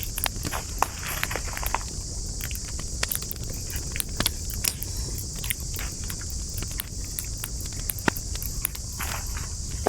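Wood campfire crackling, with many sharp, irregular pops and snaps over a low rumble of flames. A steady, high insect chirring runs behind it.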